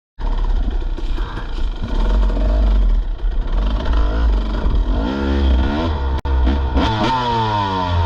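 Dirt bike engine running under load on a muddy trail, revving up and down several times in the second half, with a sharp click about six seconds in.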